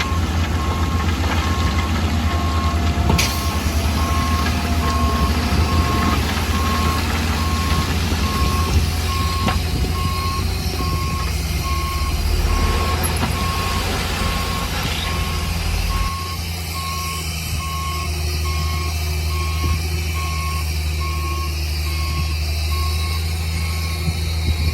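Reversing alarm on a heavy construction machine beeping steadily, about once a second, over the loud low rumble of its engine; the engine note changes a little past the middle.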